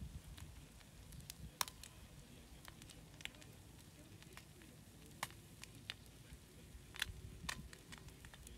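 Meat and an egg frying on a hot griddle: fat spitting in sparse, irregular sharp pops and crackles, the loudest about one and a half seconds in and around seven seconds in.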